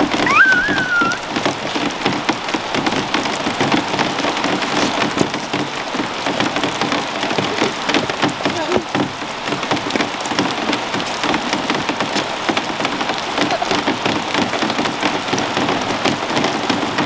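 Steady rain falling on the roof overhead: a dense, even hiss of countless drop ticks. A brief gliding squeak sounds about half a second in.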